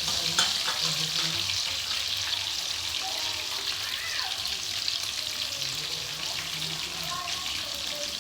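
Breaded chicken pieces frying in hot oil: a steady crackling sizzle, with one sharper pop about half a second in.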